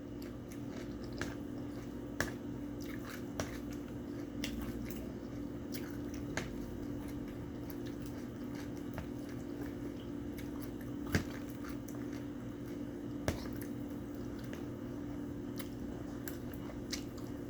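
Close-up chewing of someone eating, with scattered sharp clicks, the loudest about eleven seconds in, over a steady low hum.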